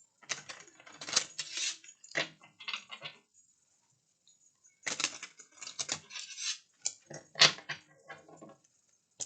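A deck of cards being shuffled by hand: two stretches of quick clicking and rustling of about three seconds each, with a short pause between them.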